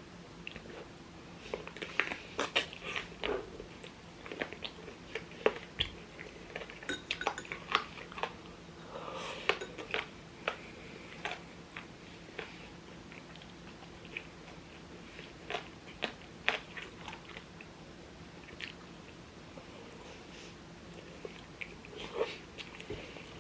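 Close-miked chewing and biting of scallion-oil chicken, with irregular clusters of short sharp mouth clicks and smacks. A faint steady hum runs underneath.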